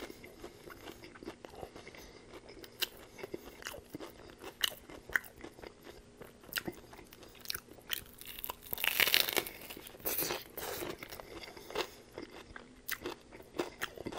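Chewing a panko-breaded fried chicken shell with lettuce and toppings, with sharp crunches throughout and a loud crunching bite about nine seconds in.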